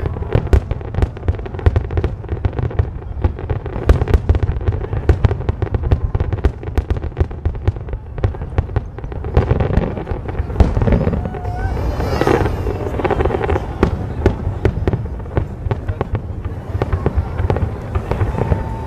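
Large fireworks display: a dense barrage of aerial shells, with many sharp bangs overlapping in quick succession.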